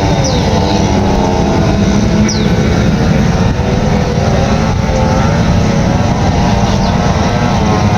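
Racing powerboat engines running loud and steady during a pre-race engine warm-up, several engine pitches overlapping and wavering.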